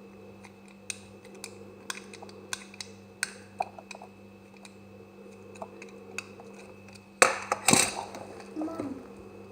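Knife cutting through semi-dry soap: a series of crisp, crunchy clicks, then a louder crumbling crackle about seven seconds in.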